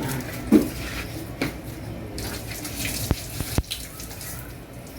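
Water running and splashing from a tap and hose as the supply hose is taken off, with a few sharp clicks and knocks from handling the hose fitting.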